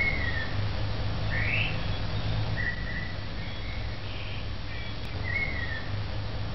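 Birds calling in short whistled notes every second or two, some sliding down in pitch and some sweeping up, over a steady low background rumble.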